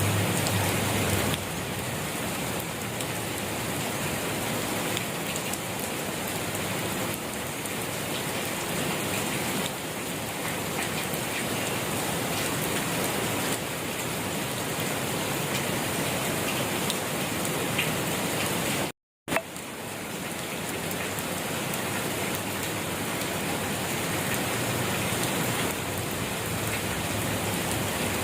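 Steady rain falling, an even hiss of many drops. About two-thirds of the way through it cuts out completely for a fraction of a second, then resumes.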